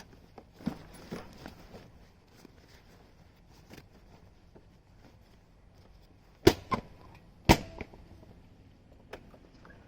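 Scattered small clicks and knocks, with two loud sharp clacks about a second apart just past the middle.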